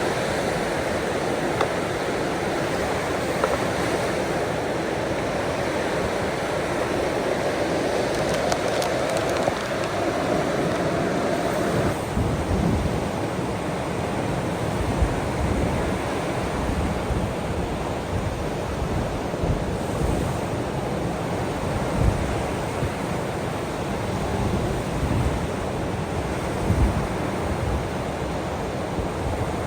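Ocean waves washing in a steady hiss of surf. About twelve seconds in the sound shifts, with irregular low rumbles and occasional knocks added, as of wind buffeting the microphone.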